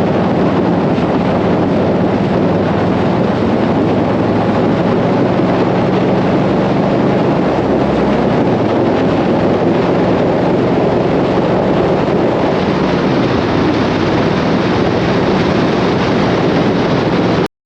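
Steady loud rush of wind and road noise on the microphone while travelling at highway speed, with a low engine drone underneath. It cuts off suddenly at the end.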